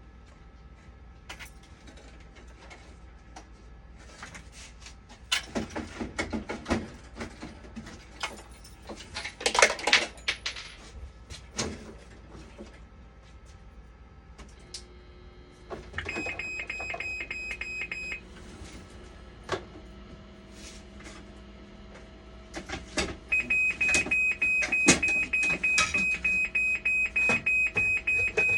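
Clatter of parts being handled, then a dialysis machine's electronic alarm. There is a two-second high beep, and from about two-thirds of the way in a loud, fast beeping of about three beeps a second that keeps going. The machine is powered up again after its power supply has been replaced.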